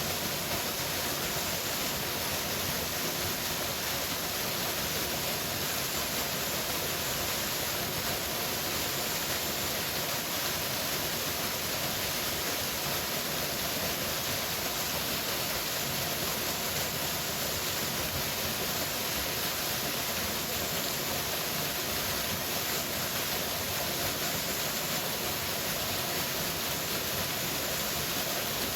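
Powerful waterfall rushing: a steady, even hiss of falling water with no breaks or changes.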